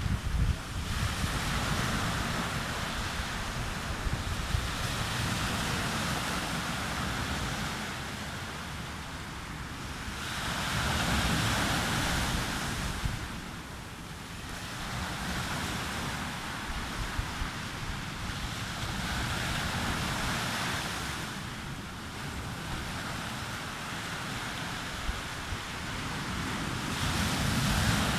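Mediterranean sea waves breaking and washing up a beach, the surf swelling and falling back every several seconds, with wind rumbling on the microphone.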